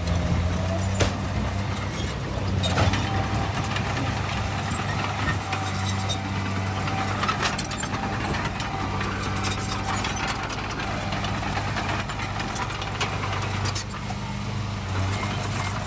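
Heavy diesel earthmoving machinery running steadily: a deep engine drone with a thin whine above it and occasional short metallic knocks.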